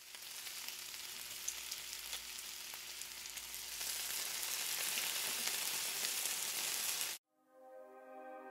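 Chicken pieces deep-frying in hot oil: a dense, steady sizzle full of fine crackles, growing louder about four seconds in. It cuts off suddenly about seven seconds in, and soft music starts.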